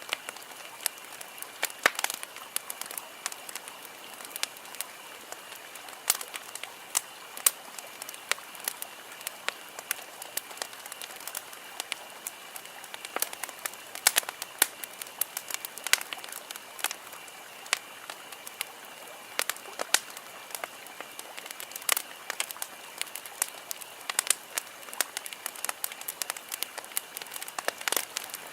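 Campfire wood crackling and popping: irregular sharp snaps of varying loudness over a steady hiss of burning, with a faint steady high-pitched tone underneath.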